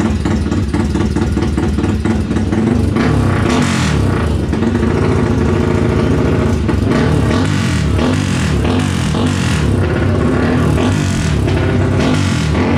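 Tuned motorcycle engines revving hard, more than one at a time, their pitch rising and falling over and over.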